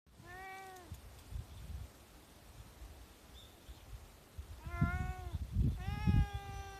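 A brown-tabby calico cat meowing three times: two short rising-and-falling meows and a longer, drawn-out one near the end. Low thumping noises sound underneath the meows.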